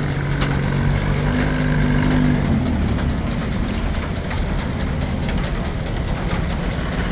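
Steam-engine-driven Frick sawmill running: a steady low hum stops about two and a half seconds in, leaving the continuous rumble and light clatter of the machinery.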